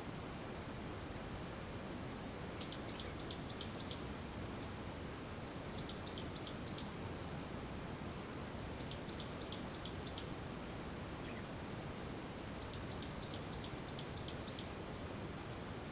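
A small songbird calling in four short runs of quick, rising high chirps, four to six notes each, over a steady hiss of rain.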